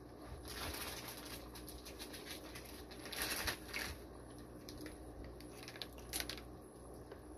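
Plastic fish bags being handled, rustling and crinkling in short bursts, the loudest about three seconds in.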